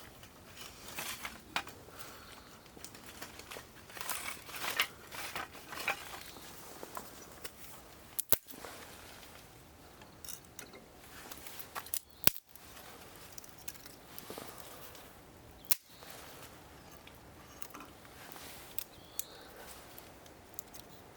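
Wood fire crackling, with scattered small crackles and three sharp pops from the burning firewood, standing out about eight, twelve and sixteen seconds in.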